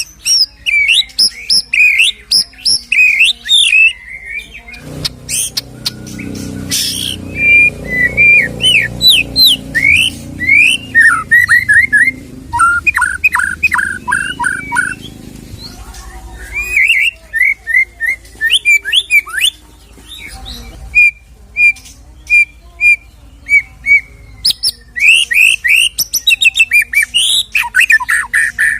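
White-rumped shama singing a long, varied song full of mimicked phrases: clear whistles, fast chattering trills and runs of repeated short notes, with short pauses between phrases. A low hum sits under the song for a stretch in the first half.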